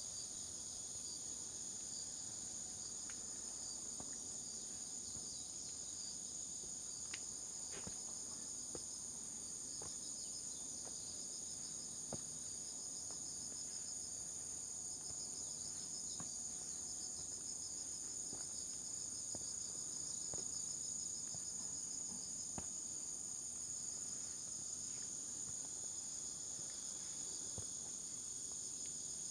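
Insect chorus in woodland: a steady, high-pitched shrill drone with a finer pulsing trill beneath it, and faint scattered ticks.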